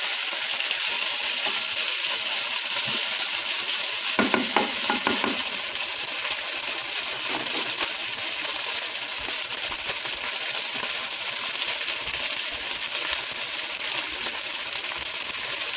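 Beef and egg frying in hot oil: a steady sizzle, with a brief run of utensil clinks and scrapes about four seconds in.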